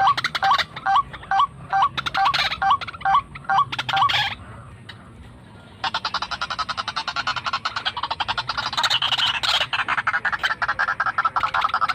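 White-breasted waterhen calls: short hooked notes repeated about three times a second, stopping about four seconds in. After a quieter pause of about a second and a half, a rapid, dense rattling series of calls starts and keeps going.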